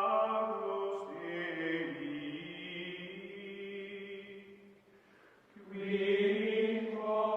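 Slow, chant-like background music of long held notes; it fades out about five seconds in and swells back a moment later.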